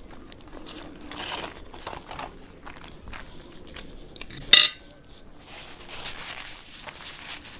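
Cutlery clicking and scraping against a plate during a meal, with one loud, sharp clink a little past halfway.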